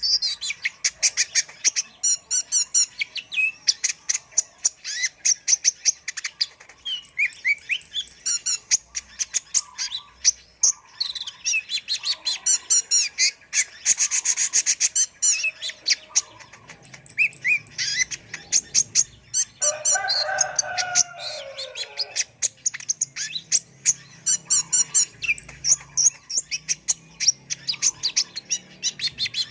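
Kolibri ninja sunbird singing a fast, high twittering song of rapid chirps and trills with hardly a pause. About two-thirds of the way through comes a lower phrase that falls in pitch.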